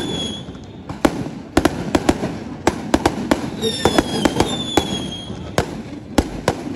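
Aerial firework shells bursting overhead in a fast, irregular string of sharp bangs over continuous crackling, with two high whistles, each dipping at its end, about halfway through.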